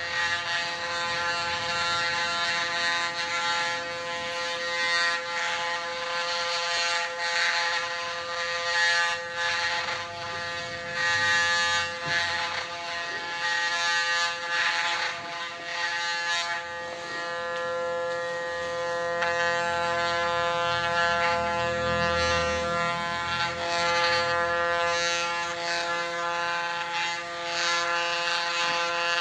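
Electric hair clippers set to 0.8 mm running with a steady buzz as they shave hair down to the scalp. A low rumble joins for a few seconds past the middle.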